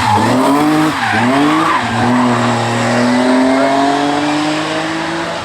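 Race car engine accelerating hard, its pitch dropping with quick gear changes near the start and about a second in, then climbing slowly and steadily in a high gear.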